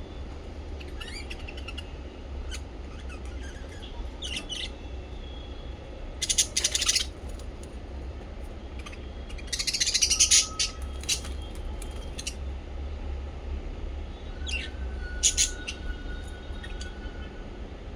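Small pet parrots chirping and chattering, with scattered short calls, two louder bursts of rapid chatter about six and ten seconds in, and a thin held whistle near the end. A steady low hum runs underneath.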